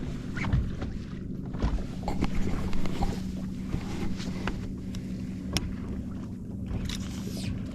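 Small fishing boat afloat, with a steady low hum under scattered light knocks, clicks and water slapping against the hull.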